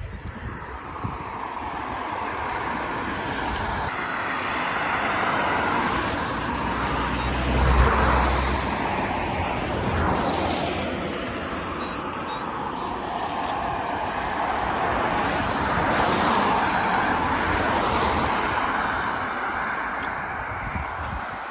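Road traffic: several vehicles pass one after another, their tyre noise swelling and fading.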